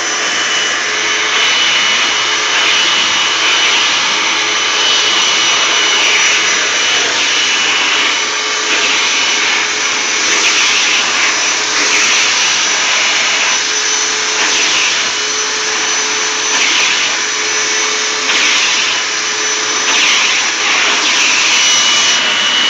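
Hoover WindTunnel bagged upright vacuum cleaner running steadily, drawing air through a hose attachment held to a rug. The rush swells and eases every second or two as the tool is worked over the pile.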